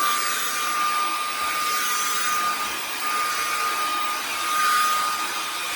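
Shark DuoClean cordless vacuum cleaner running steadily at full speed: a high, even motor whine over the rush of air. Its pipe has just been cleared of a dog-hair blockage.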